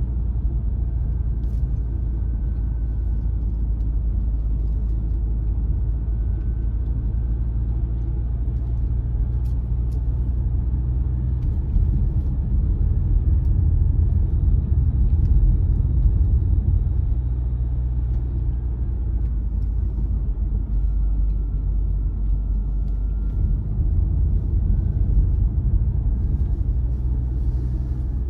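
A car driving: a steady low rumble of engine and tyres on the road, growing louder about twelve seconds in and again near the end.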